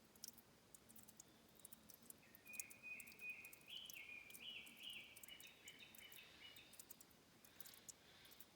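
Faint dripping and trickling of water at a stream's source, heard as small scattered clicks throughout. In the middle a bird sings a run of short whistled notes that step up and down in pitch for about four seconds.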